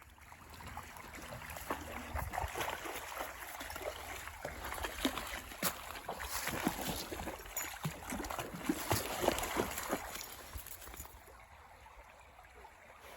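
Brook running and gurgling over rocks: a steady rush of water with many small bubbling splashes, fading somewhat near the end.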